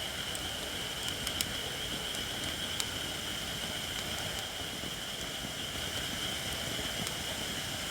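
Wood fire of shirakashi (Japanese white oak) logs burning with a low crackle and a few sharp pops, over a steady high-pitched hiss.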